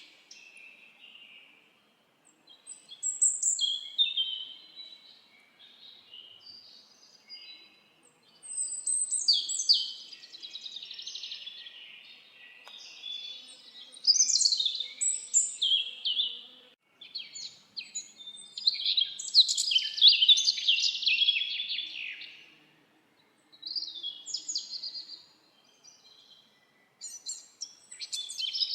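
Songbirds singing: a series of fast, high, warbled phrases a few seconds long, with short pauses between them.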